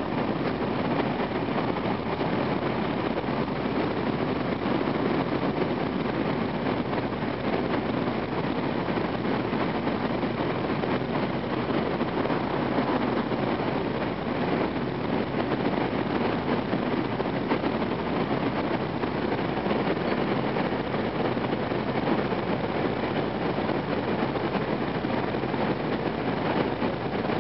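Steady running noise inside a car of an N700 series Shinkansen train underway: an even, unchanging rumble.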